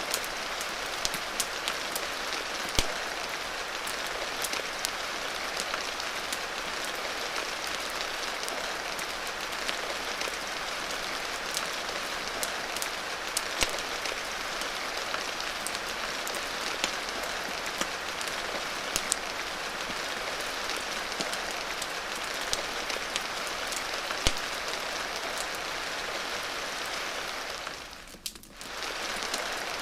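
Steady rain with scattered sharp pops and clicks. The sound briefly dips for about a second near the end, then returns.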